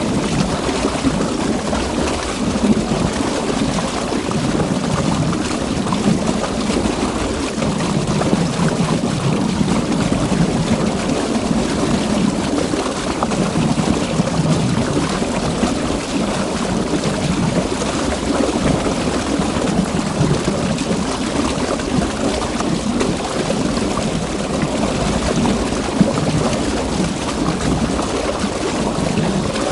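River water rushing and churning in a steady flow, with small surges in the low splashing.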